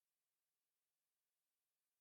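Silence: a silent soundtrack with only a faint digital hiss.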